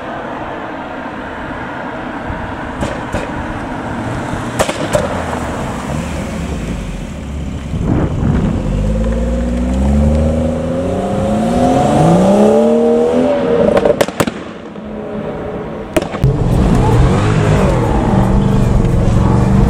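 Car engine accelerating hard, its pitch climbing in several rising sweeps, with sharp cracks in between. After a crack near the end, an engine runs loud and steady.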